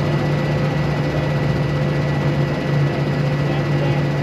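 Steady low drone of a tow truck's engine running, with no change in pitch.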